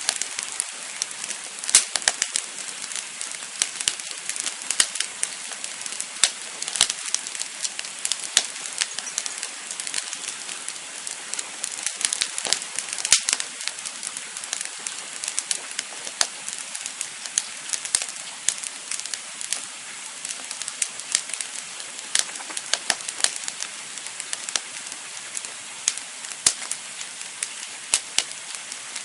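Campfire burning, wood crackling and popping irregularly over a steady hiss.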